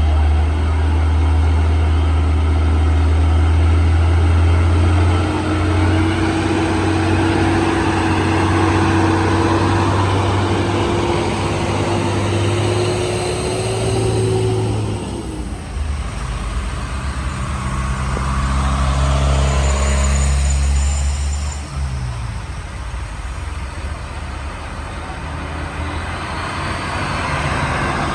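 Heavy diesel truck engines running under load on a steep climb: a loud low drone with a whine slowly rising in pitch that breaks off about halfway, and the drone dropping away about three-quarters of the way through.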